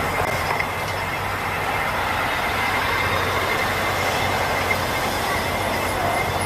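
A loud, steady droning din with a thin high whine held above it and a low hum beneath. It is one of the unexplained "strange sounds" heard from a rooftop.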